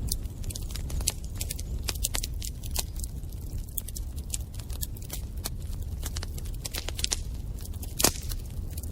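Bonfire crackling: frequent irregular sharp pops and snaps from burning wood over a steady low rumble, with one louder pop near the end.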